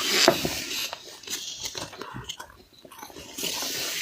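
Mouthfuls of freezer frost being bitten and chewed: crunching and crackling, loudest at the start, with a longer crunching stretch near the end.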